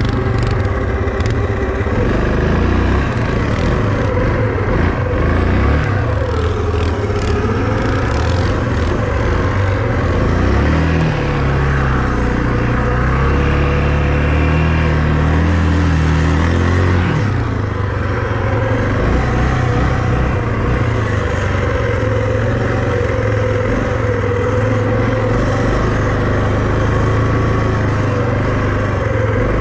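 A vehicle engine running under load, its pitch rising and falling as it speeds up and eases off.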